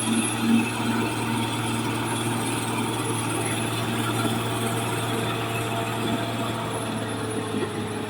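Caterpillar D6R XL bulldozer's diesel engine running steadily with a deep, even hum.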